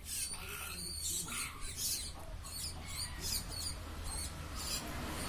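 Hungry lory (nuri) giving repeated short, high-pitched squeaky calls, about two or three a second: food-begging calls.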